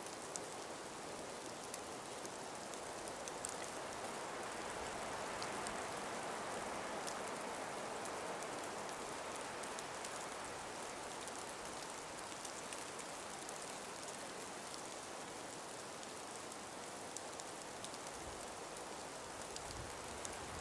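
A calm breeze in an ice- and snow-laden forest: a steady soft hiss that swells for a few seconds and eases off again, with faint scattered ticks through it.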